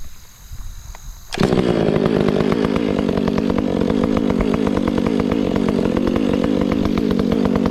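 Stihl MS 500i two-stroke chainsaw comes in suddenly about a second and a half in, then runs loud and steady.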